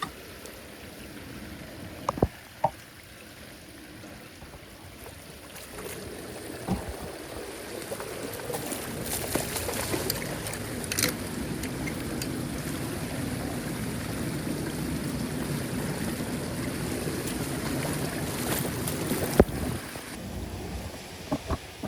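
Floodwater rushing down into a street drain as it empties. The rush grows louder about six seconds in and eases off near the end, with a few sharp knocks, one early and one near the end.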